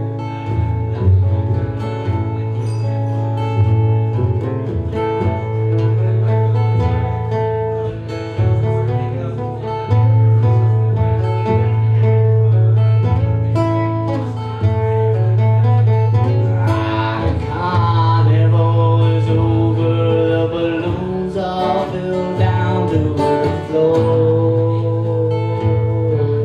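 Live band music: guitars playing over a steady bass line, with a wavering, bending lead line about two-thirds of the way through.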